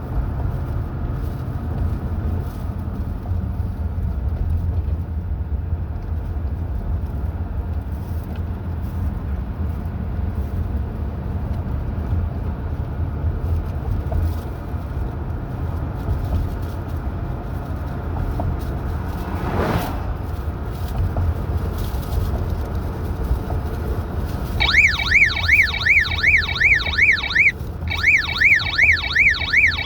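Steady low road and engine rumble of a moving car, heard from inside. About 25 seconds in, a siren starts up, its pitch sweeping rapidly up and down several times a second, with a brief break about three seconds later.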